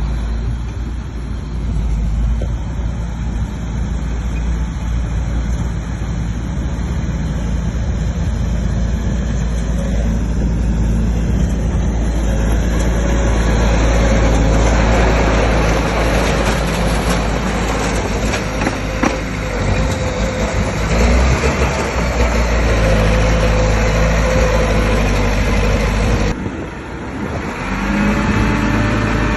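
Bulldozer's diesel engine running hard, growing louder partway through, then dropping off suddenly near the end before revving back up.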